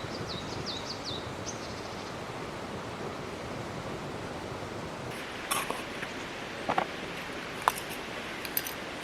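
Steady rushing of a mountain river, with a bird calling in a quick run of falling chirps in the first second or so. From about five seconds in come a few sharp clicks and knocks, the loudest a little before the end.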